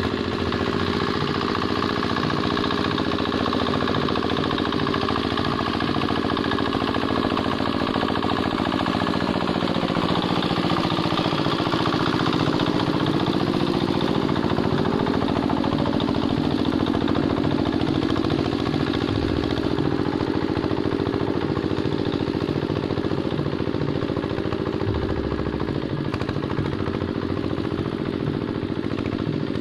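Quick Capung Metal hand tractor's engine running steadily under load, with an even, continuous beat, while ploughing a wet rice paddy.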